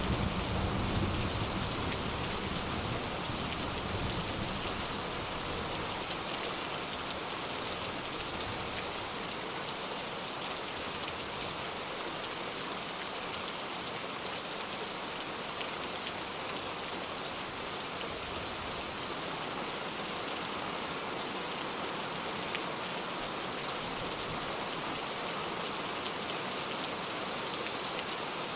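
Steady heavy rain falling, with a fine patter of individual drops. A low rumble of thunder fades out in the first couple of seconds.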